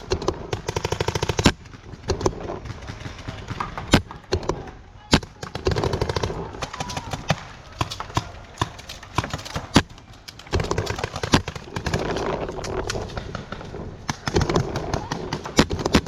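Paintball markers firing across the field: a fast string of shots lasting about a second, then scattered single shots.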